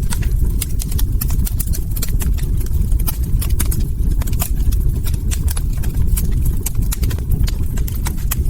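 Log fire crackling, with frequent sharp irregular pops and snaps over a steady low rumble of burning flames.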